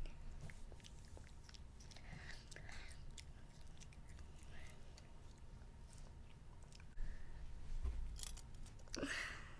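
A young child chewing strands of candy grass, with small clicking mouth sounds throughout and a brief louder noise about nine seconds in.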